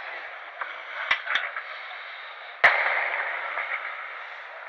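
Fireworks going off: two small sharp cracks about a second in, then one loud bang near three seconds in that echoes away over a second or so.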